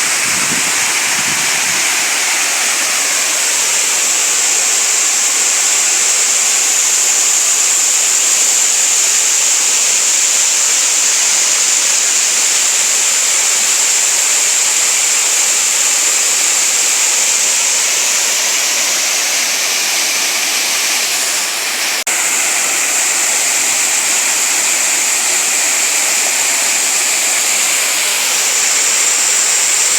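Waterfall water falling and running, a steady rush that dips slightly for a moment about two-thirds of the way through.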